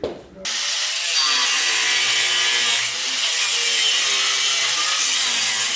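A power tool cutting metal, starting about half a second in after a short click and running steadily with a high, hissing edge.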